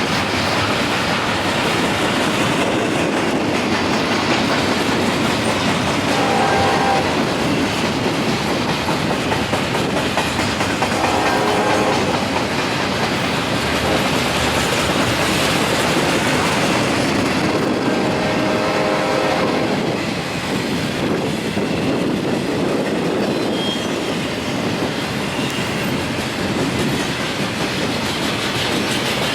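A train rolling past at close range, its wheels clattering steadily over the rail joints in a continuous loud rumble.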